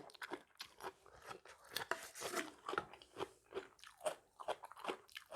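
Close-miked eating: a person chewing and biting mouthfuls of spicy seafood salad, with faint irregular crunches and wet mouth smacks.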